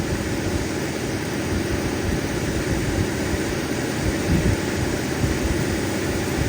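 Lapidary cabbing machine running steadily, its motor and wheels giving a continuous hum.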